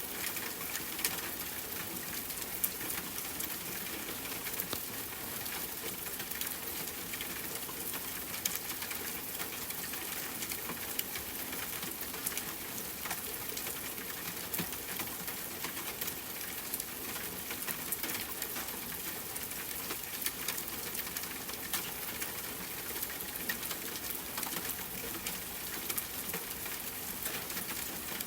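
Steady rain falling, an even hiss peppered with many small sharp ticks throughout.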